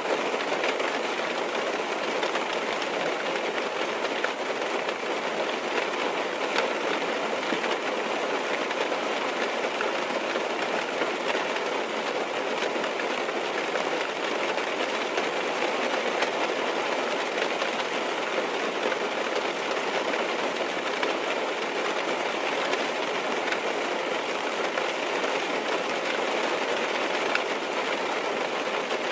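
Steady rain falling on a car's roof and windows, heard from inside the cabin: an even hiss with faint scattered drop ticks.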